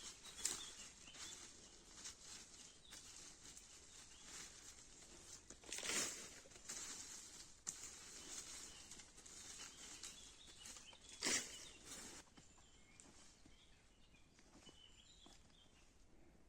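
Intermittent rustling from hands-on outdoor work, with three louder rustles near the start, about six seconds in and about eleven seconds in, and softer handling noises between them. Faint bird chirps come in over the quieter last few seconds.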